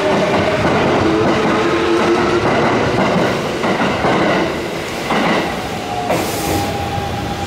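Electric commuter train running along a station platform, its wheels clattering over rail joints under a steady whine. The clatter eases slightly toward the end.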